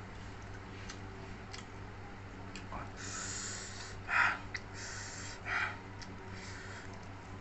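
A person eating with small mouth clicks and noisy breathing through the nose, with two louder sniffs or snorts a little past halfway, over a steady low hum.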